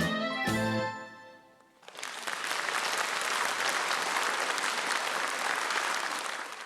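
The closing chords of a song's instrumental accompaniment fade out, and about two seconds in an audience breaks into steady applause, which cuts off abruptly near the end.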